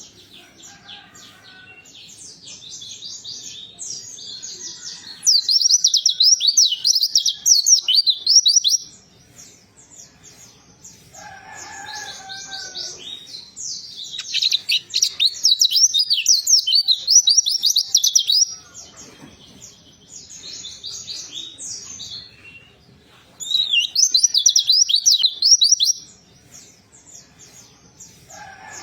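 White-eye (pleci) singing in three loud bursts of rapid, twittering high notes that sweep up and down, with quieter chattering between the bursts. A lower, bending call sounds briefly near the middle.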